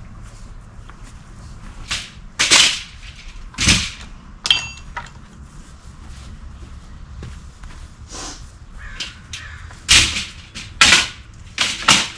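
About six sharp knocks at irregular intervals, in two clusters: three in the first half and three close together near the end.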